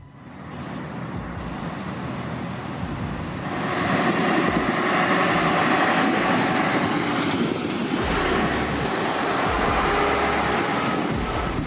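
Heavy truck running under way, a low engine rumble under a loud rushing noise that builds over the first few seconds and then holds steady.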